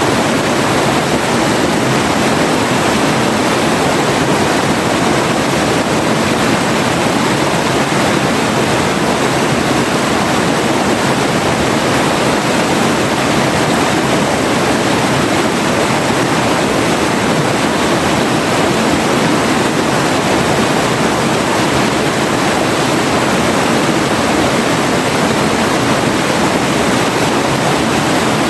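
River water rushing and splashing in a steady, unbroken wash.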